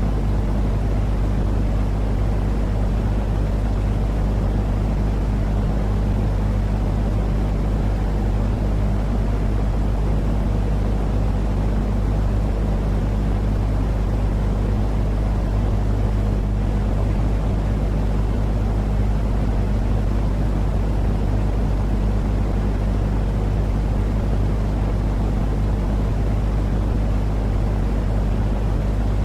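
Continuous white-noise sleep sound: a steady, unchanging rushing drone, heaviest in the low end with a constant low hum under it.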